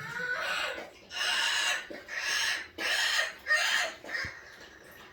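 Pet bird giving a run of five harsh, raspy calls of about half a second each, then falling quiet about four seconds in.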